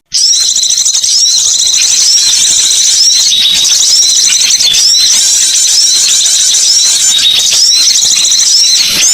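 Recorded bird-lure track: dense, high-pitched bird chatter with sharp curved notes repeating about once a second, starting right after a brief break.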